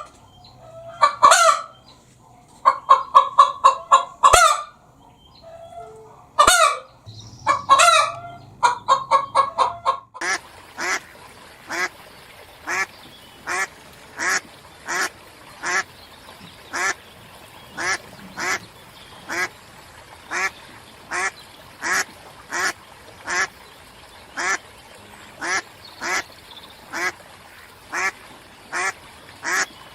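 Bird calls: loud bouts of rapid, repeated calls for about the first ten seconds, then a steady series of short single calls, about three every two seconds.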